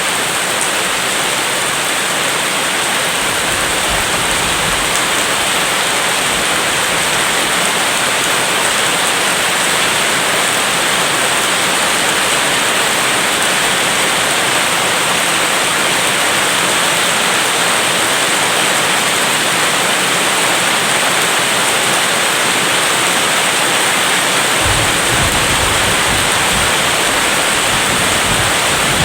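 Steady heavy rain, an even hiss of downpour. Near the end a low rumble comes in under it.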